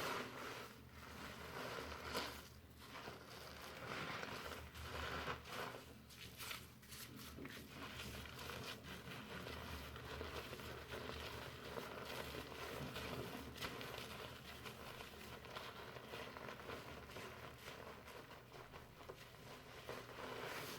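Fingers slowly working foamy shampoo lather through hair, a continuous soft crinkly rustling with many small crackles and swells.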